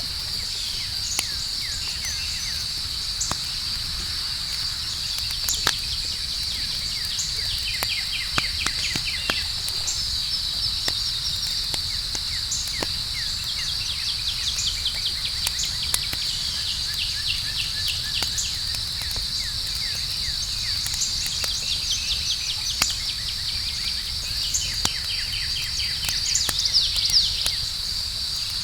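Outdoor campfire crackling, with scattered sharp pops over a low steady rumble. A constant high-pitched insect trill runs beneath it, with repeated clusters of rapid chirps coming and going.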